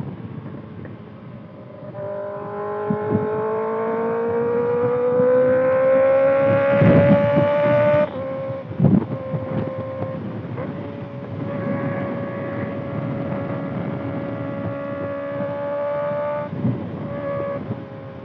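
Kawasaki ZX-6R inline-four engine through a Voodoo Racing slip-on exhaust while riding. The engine note climbs steadily under acceleration for about six seconds, drops off sharply about eight seconds in, then holds a steady note with a brief break near the end, over wind rumble.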